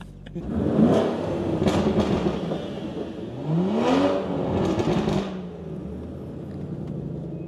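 Car engine and exhaust revving hard twice. The first surge comes about half a second in; the second rises in pitch and falls back a little before the midpoint. It then settles into a steadier drone that fades toward the end.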